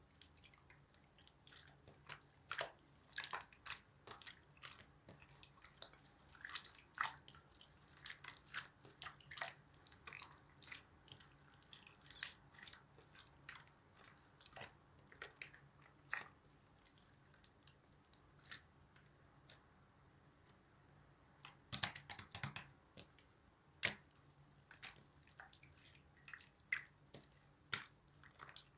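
Slime being squeezed and kneaded by hand: irregular wet squishing with small sticky clicks and pops, a thicker run of clicks about two-thirds of the way through.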